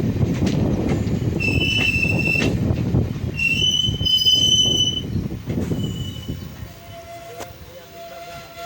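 Indian passenger train running with a loud rumble and two bouts of high metal-on-metal squealing from its wheels. About two-thirds of the way through, the rumble fades away and a fainter steady tone is left.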